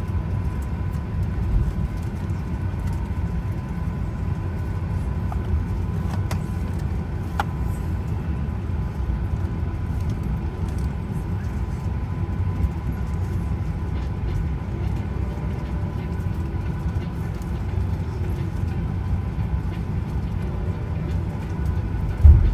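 Boeing 737-900ER cabin at the gate before engine start: a steady low rumble of the air-conditioning and auxiliary power, with a faint steady whine. There are a few light clicks, and a thump right at the end.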